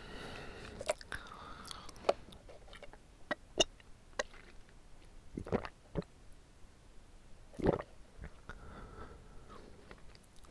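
Chewing of chewy bubble tea tapioca pearls: irregular wet mouth clicks and smacks, a few of them louder than the rest.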